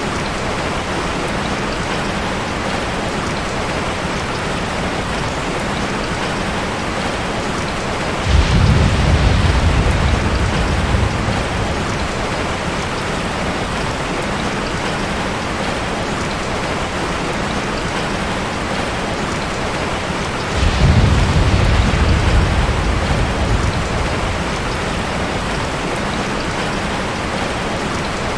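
Ocean surf: a steady wash of water, with two waves breaking about twelve seconds apart. Each break is a sudden deep surge that fades over a few seconds.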